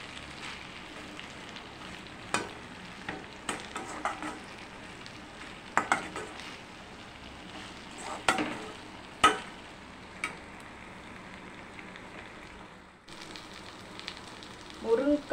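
Potato and drumstick stir-fry sizzling in oil in a nonstick kadai, with a steady hiss, while a spatula stirs it, knocking and scraping against the pan several times in the first ten seconds.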